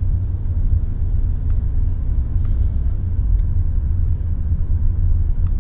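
A steady, loud low rumble with a few faint clicks.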